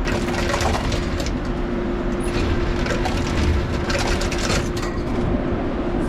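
Passenger train moving along the track: a steady hum under a continuous crackle of rattles and clicks from the car.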